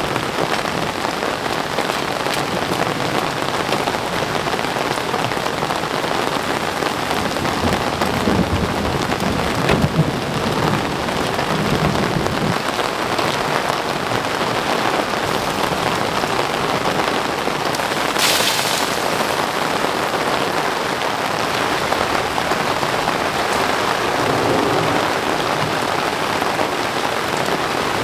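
Heavy rain falling steadily, with a low rumble of thunder about nine to twelve seconds in and a short sharp hiss about two-thirds of the way through.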